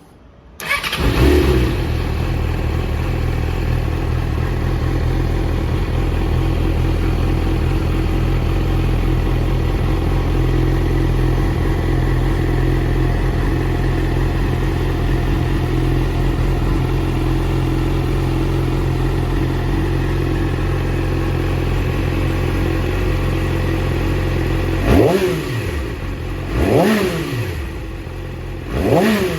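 Yamaha YZF-R6 inline-four sport-bike engine with an Akrapovič race slip-on exhaust starting up and idling steadily. Near the end the throttle is blipped three times, each rev rising and falling quickly.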